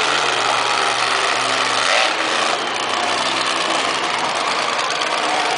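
Monster truck engine running loud and revving, its note stepping up and down in pitch, with a louder surge about two seconds in.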